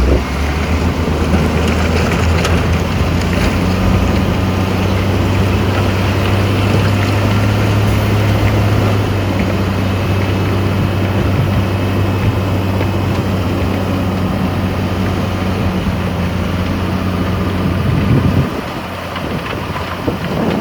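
Heavy diesel engine running steadily with a constant low hum, which drops away about eighteen seconds in.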